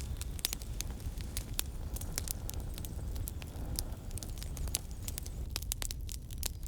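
Campfire crackling, with irregular sharp pops over a low steady rumble.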